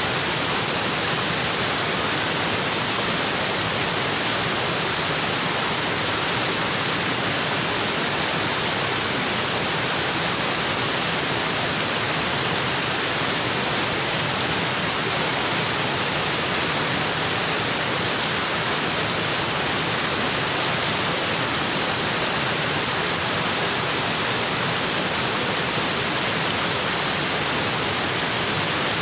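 Waterfall: water falling onto rocks in a steady, unbroken rush.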